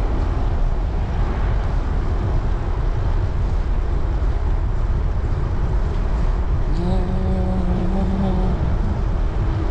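Wind rumbling on the microphone of a moving road bike, steady throughout. About seven seconds in, a pitched tone with overtones sounds for a second or two.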